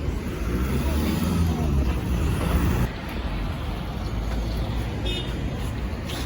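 Alexander Dennis Enviro400 MMC hybrid double-decker bus heard from on board, its drivetrain rumbling low with a pitched hum that climbs from about a second in and falls away at about three seconds.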